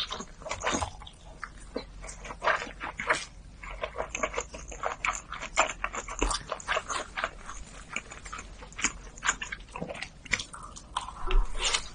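Close-miked eating sounds: a rapid, irregular run of wet chewing clicks and mouth smacks.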